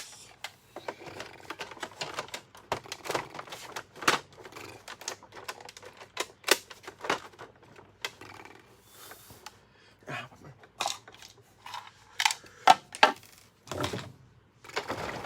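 Irregular clicks, taps and clatter of hard plastic vacuum-cleaner parts being handled and fitted together, with a few louder knocks near the end.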